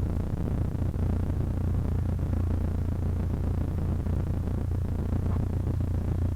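Cessna 152's Lycoming O-235 four-cylinder engine and propeller running steadily, heard inside the cabin as a low, even drone.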